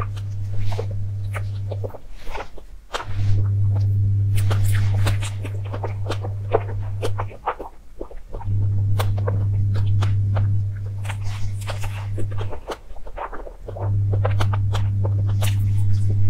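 Close-miked wet chewing and mouth clicks of someone eating a soft cream-filled crepe. Under them runs a loud low hum that cuts out briefly every few seconds.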